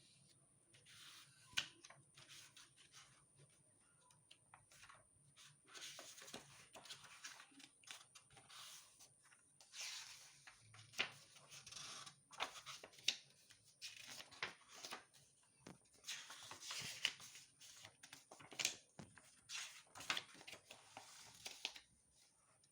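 Paper pages of a book being handled and turned: irregular soft rustles and swishes, with a few sharp light taps.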